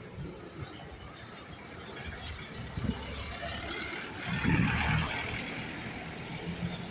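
City bus engine running at a low, steady hum, with a louder rattling, hissing mechanical burst about four and a half seconds in.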